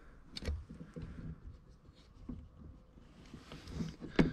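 Faint scattered clicks and knocks of a camera mount being handled and repositioned, with a sharper click about half a second in and another near the end.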